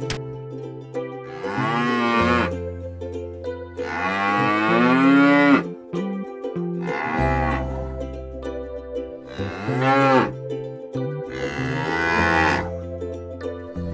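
Farm animals calling: four drawn-out calls that bend in pitch, over background music with steady held low notes.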